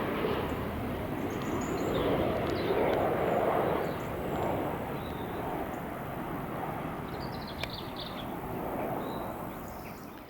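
Jet airliner on its landing approach passing by, its engine noise a broad, steady rush that is loudest a few seconds in and then slowly fades away.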